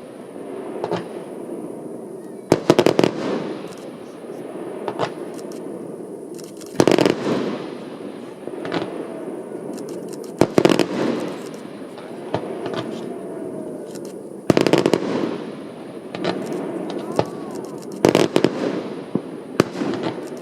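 Fireworks display: a volley of sharp bangs about every four seconds, each cluster trailing off before the next, over a steady background noise.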